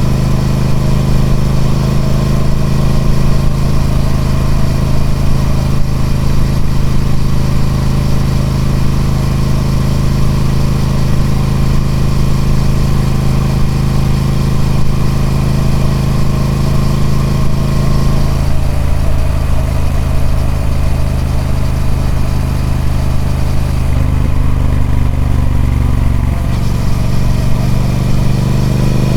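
Triumph Speed Twin 1200's parallel-twin engine running through its stock exhaust. It holds a steady note at first; about two-thirds in the note drops and eases off, and near the end the pitch rises as it accelerates.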